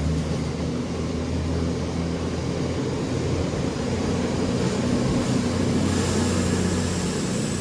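Class 220 and Class 221 Voyager diesel-electric multiple units pulling away, their underfloor diesel engines running under power with a steady low drone. A faint high whine joins in near the end.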